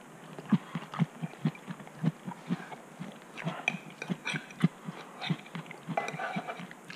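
Close-miked chewing of a mouthful of breakfast food, about two chews a second, with wet mouth clicks and smacks here and there.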